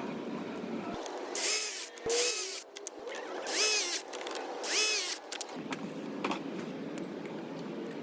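A power tool run in four short bursts, its whine rising and falling in pitch each time.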